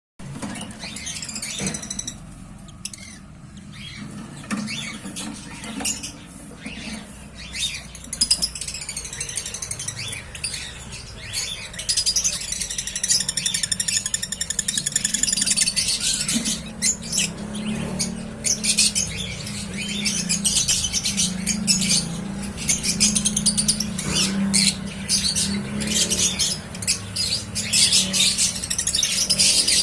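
Newly hatched cockatiel chicks cheeping: rapid, overlapping high-pitched calls that grow busier and louder about halfway through, over a steady low hum.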